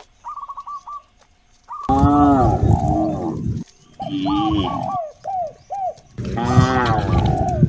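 Cows mooing: two long, loud moos, the first about two seconds in and the second starting near the end. Short, quickly repeated chirps sound between them.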